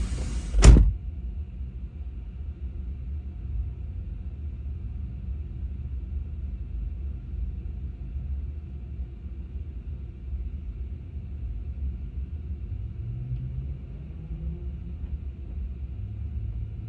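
A single sharp thump about a second in, then a low, steady, muffled rumble of a car heard from inside the cabin.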